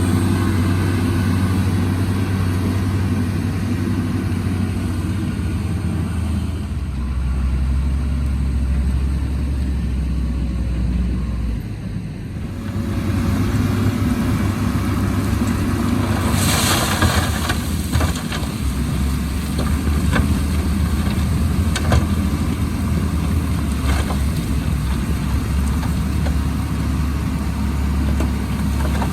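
Heavy diesel engine of earthmoving machinery running under varying load. Its pitch drops about a quarter of the way in and rises again near the middle. Soon after, a burst of hiss comes in, then short knocks roughly every two seconds over the engine.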